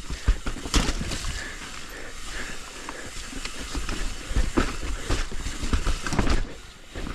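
Hardtail mountain bike ridden over rough trail: tyre noise, a low wind rumble on the microphone, and irregular clunks and rattles from the bike.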